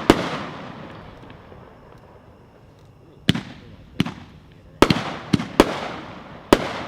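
A 20-shot consumer firework cake firing: about eight sharp bangs at uneven intervals, each trailing off in a rumbling echo. After the first bang there is a lull of about three seconds, then the bangs come quicker toward the end.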